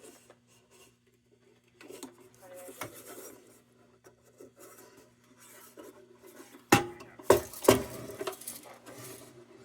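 Light metallic clinks and rubbing as a tin lantern is handled, then a few sharp metal knocks about seven seconds in.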